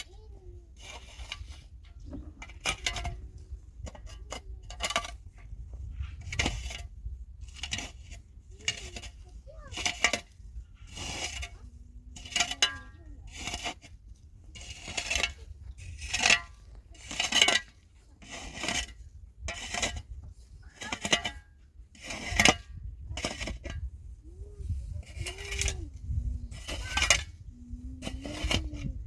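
A metal digging tool repeatedly striking rock and earth, about one sharp clinking blow a second, with faint voices between the blows.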